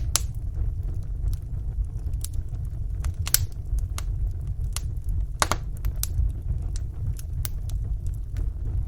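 Wood fire burning in a fireplace: a steady low rumble of the flames with scattered sharp crackles and pops at irregular intervals, two of them louder, about three and five and a half seconds in.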